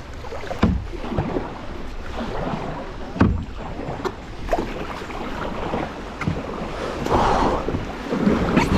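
Paddling a canoe on a river: water sloshing and splashing, with several sharp knocks of paddles against the hull.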